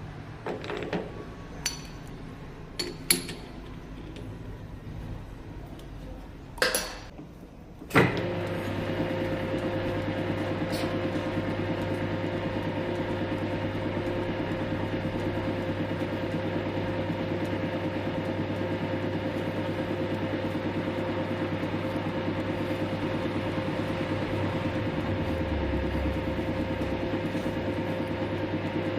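A few handling knocks and clicks, then about eight seconds in a lathe starts and runs steadily with a humming whine, turning a wire brush to clean an injection-molding machine nozzle.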